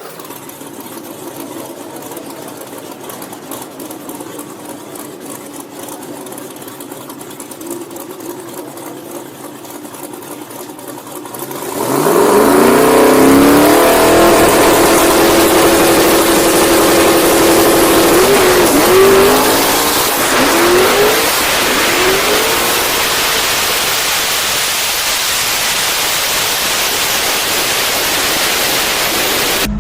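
Drag-racing street car's engine running low and steady while staging, then launching at full throttle about twelve seconds in with the revs climbing. A few seconds later the revs dip and rise again several times as the driver pedals the throttle, the tyres breaking loose on a slick track, before it runs on loud down the strip.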